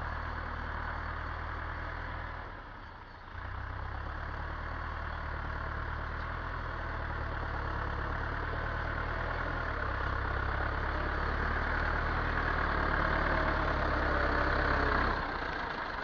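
Massey Ferguson 275 tractor's four-cylinder diesel engine running steadily. It drops away briefly about three seconds in, then comes back and grows louder toward the end.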